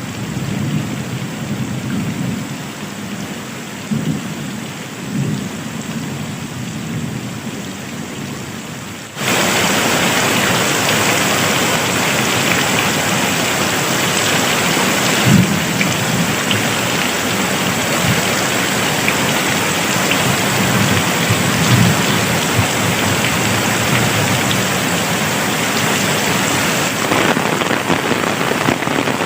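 Steady rain with low rumbles of thunder. About nine seconds in it switches abruptly to much louder, heavier rain, with a couple more thunder rumbles later.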